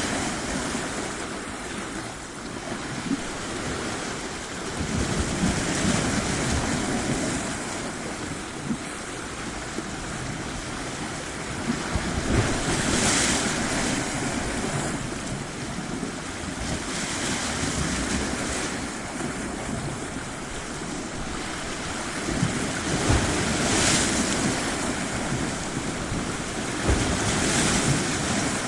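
Ocean waves breaking and washing on a shore, a steady rush of surf that swells and eases every several seconds. Wind buffets the microphone.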